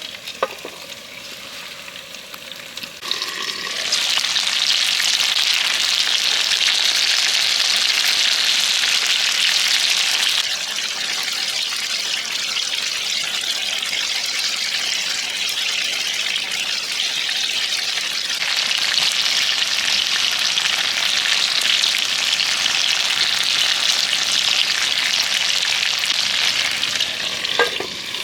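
Food sizzling and frying on a hot cooking plate: a steady hiss that grows louder a few seconds in, eases off partway through, then swells again.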